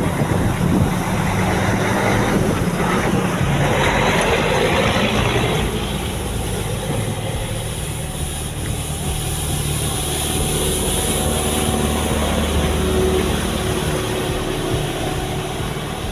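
Engines of heavy road-paving machinery running steadily with a low, even hum, and a louder rush of noise between about two and six seconds in.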